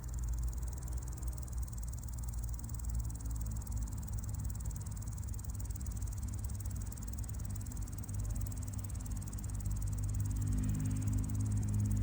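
Male lesser marsh grasshopper stridulating: a fine, rapidly pulsed, high-pitched rasping that runs steadily throughout. A steady low rumble sits underneath.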